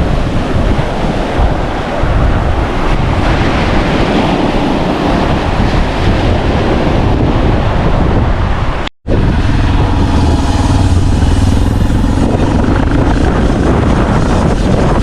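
Wind buffeting the microphone over waves washing on a rocky coral shore, a steady loud rush. About nine seconds in it cuts out for an instant and resumes with a heavier low wind rumble.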